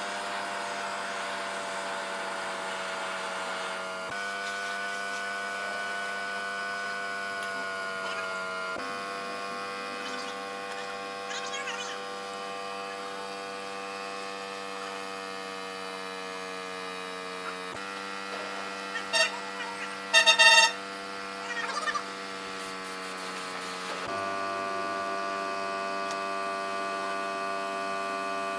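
A steady electric machine hum whose pitch drifts slightly downward, broken by abrupt cuts every several seconds. About two-thirds of the way through come a few short, loud ringing tones.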